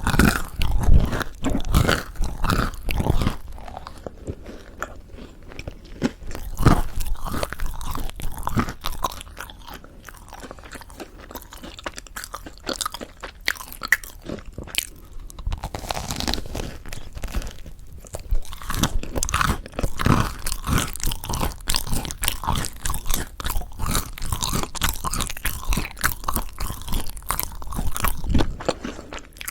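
Close-miked biting, crunching and chewing of crispy-crusted mocha chapssal bread. Loud crackly crunches come in the first few seconds, then quieter chewing, then crunching picks up again about halfway through.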